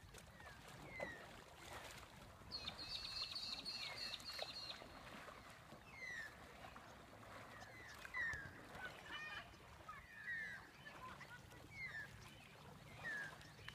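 Faint bird calls over open water: a rapid trilling run of about two seconds, then short falling chirps every second or two.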